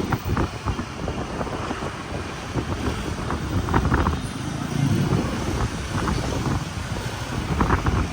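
Wind buffeting the microphone while riding on a moving motorbike through city traffic, a steady rushing rumble that swells in gusts.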